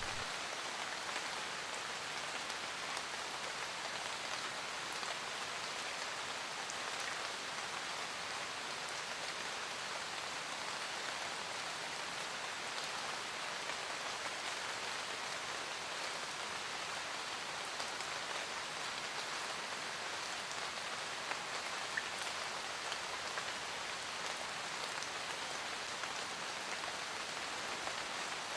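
Steady rain pattering on a roof: a dense, even hiss with scattered individual drops ticking through it.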